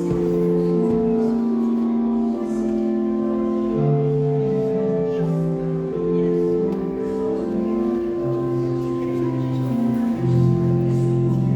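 Organ music: slow chords of long, evenly held notes, changing about once a second.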